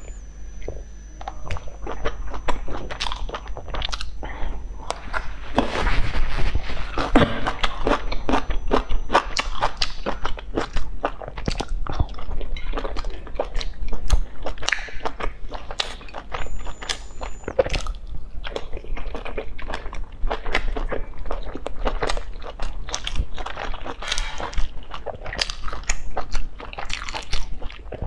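A person chewing and biting soft steamed buns close to a clip-on microphone: a dense, irregular run of wet mouth clicks and smacks, busiest about a quarter of the way in.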